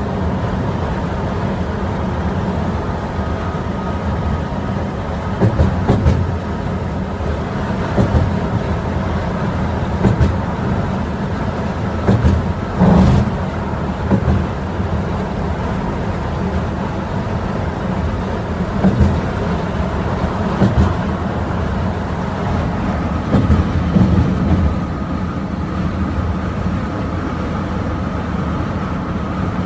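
Bus on the move: a steady engine and road rumble, with a short knock or rattle every few seconds.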